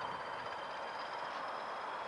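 Train of diesel locomotives towing a steam locomotive, rolling away over the rails: a steady rushing noise with two faint, steady high-pitched tones above it.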